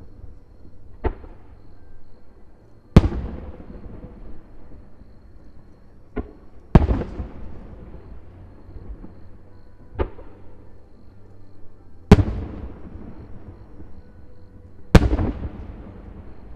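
Aerial firework shells bursting: seven sharp bangs a second or few apart. The four loudest are each followed by a rolling rumble that dies away over about a second.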